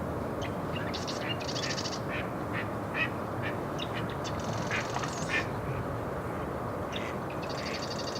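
Wetland birds calling: many short high calls and three buzzy trills, one about a second in, one about halfway through and one near the end, over a steady background rush.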